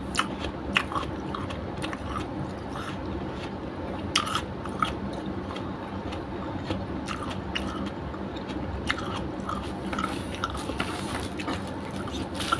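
A person chewing food with the mouth closed: scattered short, soft clicks and crunches of eating.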